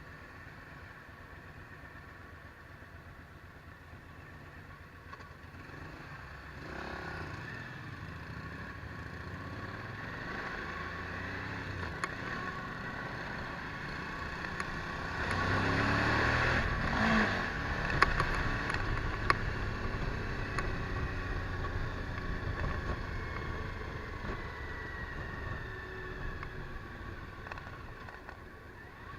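Suzuki V-Strom DL1000 V-twin motorcycle on the move, its engine and road noise swelling louder through the middle and easing off near the end, with a few sharp clicks.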